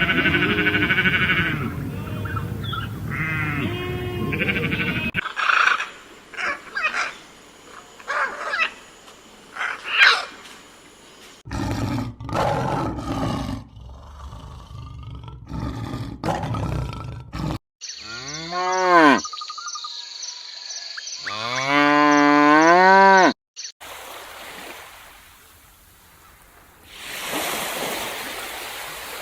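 A string of different animal calls, cut abruptly from one clip to the next, including a series of pitched calls that rise and fall near the middle.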